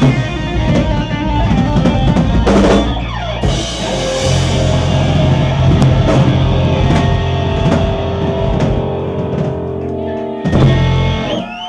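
Rock band playing live: drum kit, electric guitar and bass, with a last big hit about ten and a half seconds in before the music drops away.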